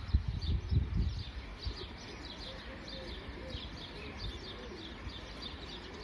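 Small birds chirping outdoors: many short, high chirps, several a second. A few low thumps on the microphone in the first second.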